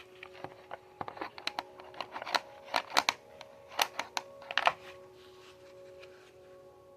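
Irregular clicks and clacks of hard plastic vacuum-cleaner parts being handled during disassembly, thickest in the first five seconds, with a few louder knocks around the middle.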